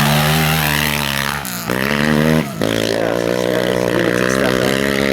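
Racing quad bike engine running hard at high revs, with two brief breaks in the engine note about one and a half and two and a half seconds in, then holding a steady note.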